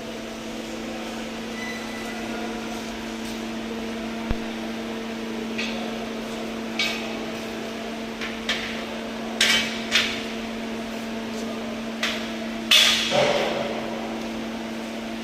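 Scattered hammer knocks and clanks on metal, irregular and a second or two apart, the loudest a close pair about nine seconds in and another near thirteen seconds, over a steady machine hum.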